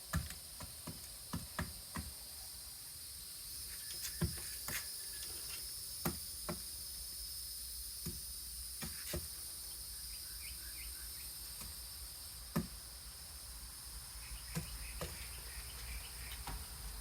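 Steady high-pitched chorus of insects, with irregular sharp taps and clicks scattered through it.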